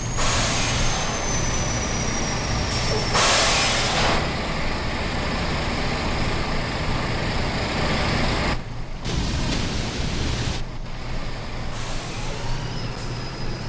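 Truck engine running steadily with a faint high whine, broken by two short, loud hisses within the first four seconds.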